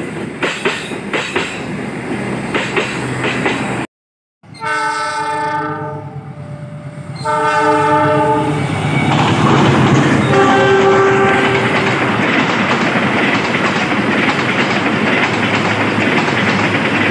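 Train wheels clattering rhythmically over rail joints; then, after a cut, a train horn sounds two long blasts. A train then passes with a loud, steady rumble, with one more shorter horn blast at a lower pitch.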